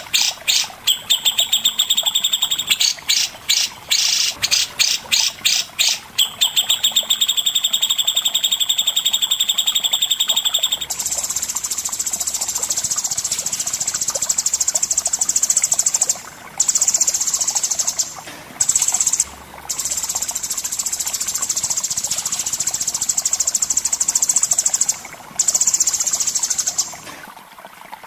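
Songbird singing: a run of rapid repeated chirps and buzzy notes, then about 11 s in a long, high, unbroken buzzing trill that stops briefly a few times.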